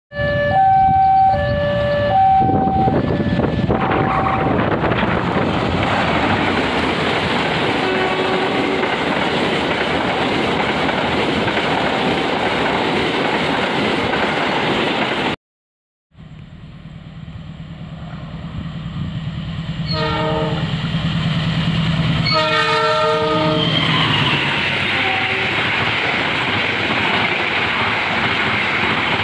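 An Indonesian CC 201 diesel locomotive sounds its horn in several short blasts and its passenger train runs past with steady wheel and rail noise. After a sudden cut, a second train hauled by a CC 206 diesel locomotive comes closer and grows louder. It blows its horn once briefly and then longer, and its passenger cars run past.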